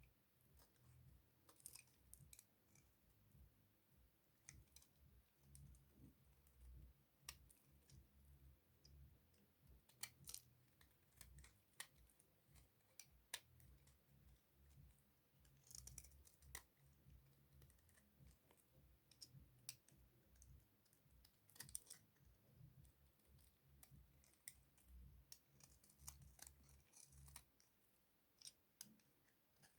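Dry bar soap being cut, giving faint, crisp, irregular clicks and snaps over a soft low handling rumble.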